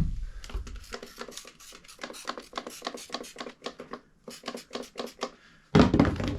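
A hand spray bottle squirting soapy water onto a freshly inflated tractor front tire in quick repeated pumps, about five a second, to check for leaks, with a loud knock of handling near the end.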